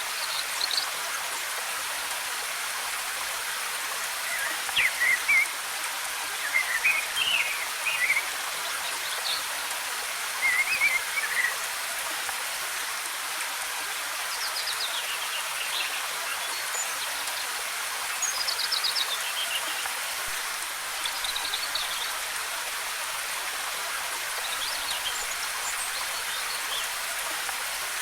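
Steady rush of a waterfall with forest birds calling over it: short, quick chirping phrases that come every few seconds, several of them falling in pitch.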